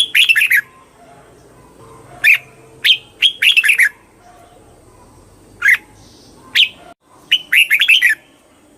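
Red-whiskered bulbul singing: short, bright phrases of quick gliding chirps, each lasting well under a second, repeated about every second or two.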